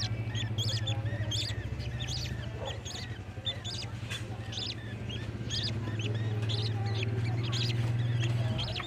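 Budgerigars chirping: a steady run of short, high calls, about one or two a second, over a continuous low hum.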